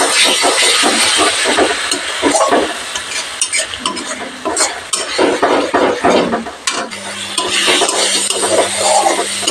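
Thick spice paste sizzling in oil in a metal kadai while a metal spatula stirs it and scrapes against the pan in repeated strokes. The masala is being fried down (kosha) after a splash of water.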